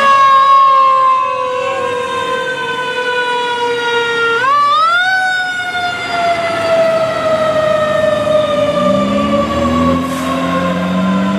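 Fire truck's siren wailing. The pitch slowly winds down, sweeps quickly back up about four seconds in, then slowly winds down again, the slow coast and quick spin-up of a mechanical siren. Lower tones join in near the end.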